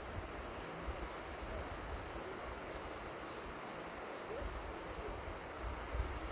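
Steady rush of flowing river water, with wind buffeting the microphone in low gusty rumbles, strongest in the second half.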